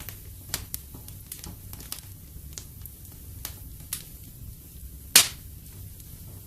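Wood fire crackling in a fireplace: irregular sharp pops and snaps over a soft low hiss, with one much louder pop about five seconds in.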